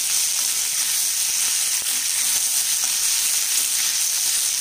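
Chopped onions and green capsicum sizzling as they fry in hot oil in a pan: a steady hiss, with a few faint clicks of stirring.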